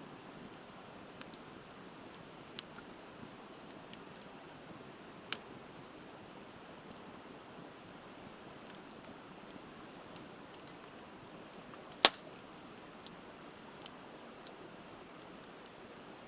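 Wood fire crackling with scattered sharp pops, one much louder pop about twelve seconds in, over the steady rush of a river.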